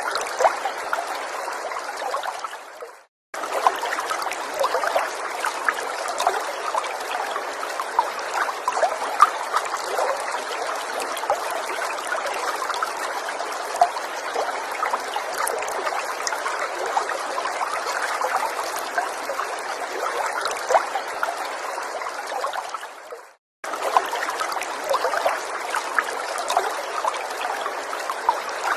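Gentle forest stream trickling and babbling, a steady flow with many small droplet splashes. It fades out and cuts back in abruptly twice, about three seconds in and near the twenty-three-second mark.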